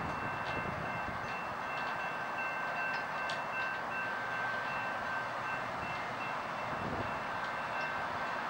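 A Stadler GTW commuter train running past, a steady rushing rail noise with two steady high ringing tones over it that break off briefly now and then.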